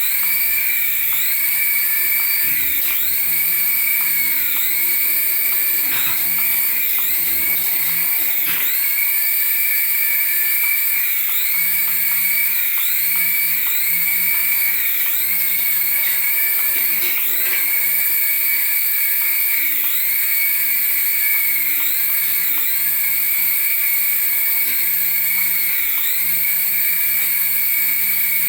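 High-pitched electric whine from a remote-control toy, steady, with a dip and swell that repeats about every second and a half.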